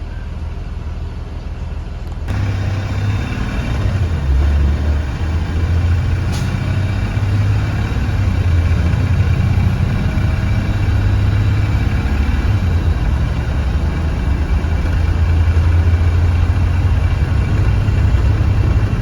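School bus engine running with road noise. About two seconds in it gets suddenly louder and stays loud as the bus moves off.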